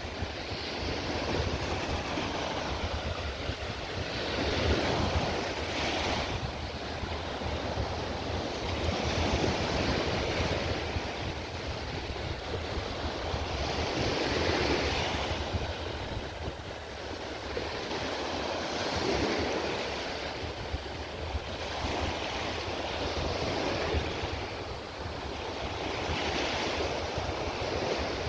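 Small waves breaking and washing up the beach, swelling about every four to five seconds, with wind rumbling on the microphone.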